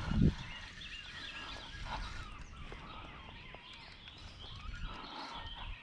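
Birds chirping, many short calls over faint outdoor background noise, with one brief low thump just after the start.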